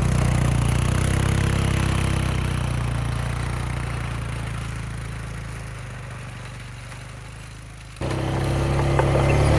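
Quad (ATV) engine running steadily, growing quieter over about eight seconds, then loud again after a sudden cut.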